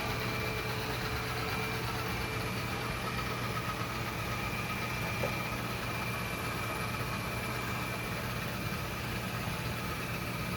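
Yeedi Vac 2 Pro robot vacuum running mid-clean: a steady motor hum with a thin, high, constant whine.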